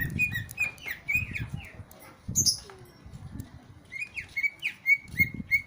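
A songbird calling in a quick series of short, repeated down-slurred chirps on much the same pitch, with a brief higher note about halfway through. Intermittent low rumbling runs underneath.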